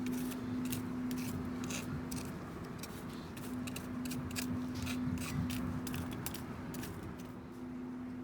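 Small wood fire crackling with many irregular sharp pops and snaps, over a steady low hum.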